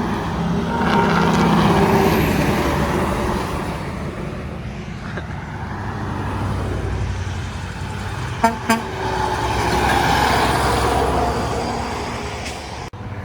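Trucks and cars passing on a highway, their engine and tyre noise swelling as each goes by. Two short sharp blips come about eight and a half seconds in.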